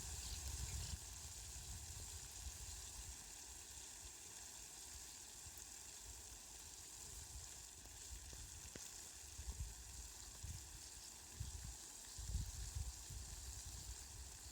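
Light rain falling, a faint steady hiss, with irregular low rumbles coming and going, most around the last third.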